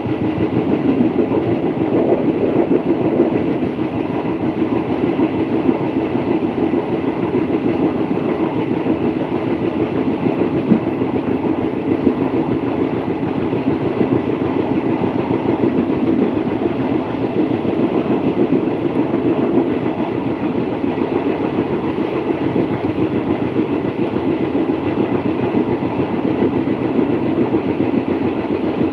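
Passenger train running along the track, heard from aboard: a steady rumble of wheels on the rails with some rattle of the carriage.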